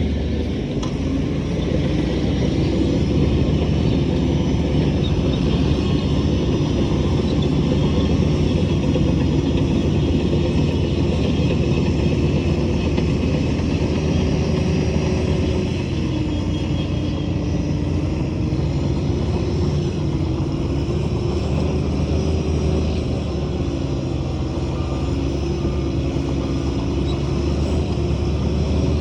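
Shantui bulldozer's diesel engine running steadily under load while pushing soil. Its pitch dips and recovers a few times in the second half.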